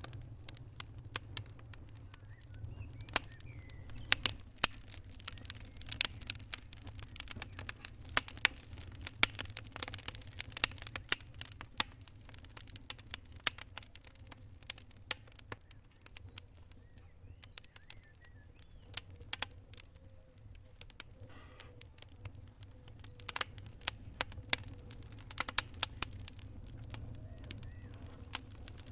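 Fire crackling: irregular sharp pops and snaps over a low steady rumble, thick in the first half, sparser in the middle, and bunched again near the end.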